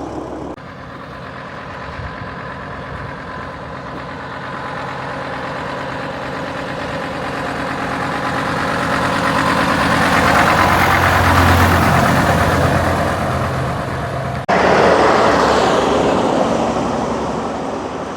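An open-top bus driving past, its engine hum growing louder as it approaches and passes. A sudden jump about 14.5 s in is followed by a loud rush of vehicle noise that fades away.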